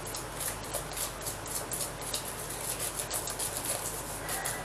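Wire whisk beating eggs into sugar in a stainless steel bowl: a fast, uneven run of light scraping clicks as the wires hit the metal.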